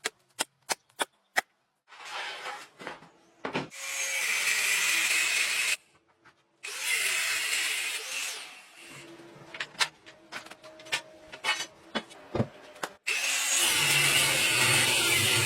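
Power tool working the steel of a truck leaf spring in three separate loud, hissy bursts that start and stop abruptly. Scattered sharp taps fall between the bursts, and a steady low motor hum runs under the last one.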